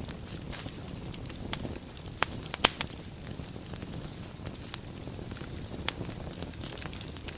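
Wood fire burning in a fireplace: a steady low rumble and hiss with frequent small crackles, and a few louder pops, the biggest two close together a little over two seconds in and another near six seconds.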